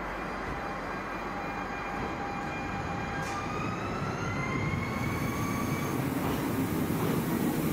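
A train moving through the station, with thin whining tones that rise slightly in pitch over the rumble of wheels on rails. The rumble grows louder toward the end.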